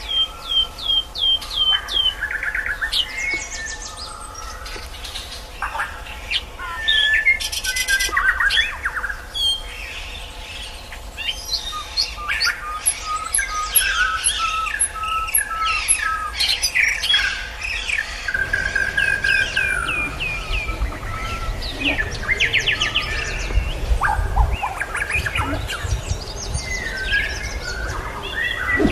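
White-rumped shama and sikatan londo singing: a varied run of whistled phrases, quick repeated downward-sweeping notes, rapid trills and harsh chattering. A low rumble joins about two-thirds of the way through.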